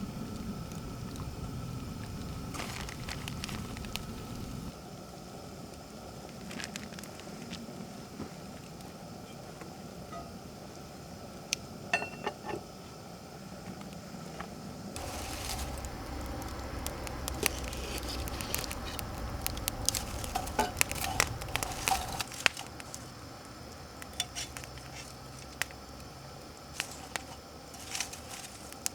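Wood fire crackling and food sizzling, with scattered sharp clicks and clinks of cookware, busiest in the second half.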